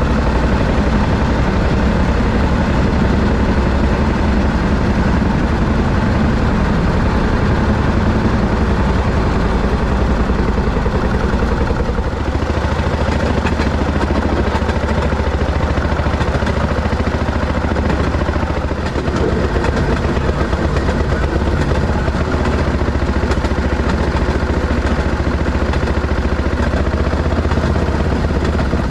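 Railroad speeder (M19 rail motorcar) engine running steadily while the car rides along the track.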